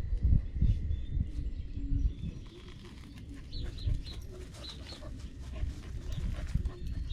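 Uneven low rustling and thudding, loudest in the first two seconds, with a small bird chirping a quick series of short high notes about halfway through.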